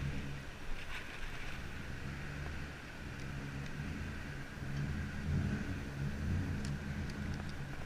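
Low rumble of a vehicle engine running close by, with street hiss and a few faint ticks; the rumble grows louder about five seconds in.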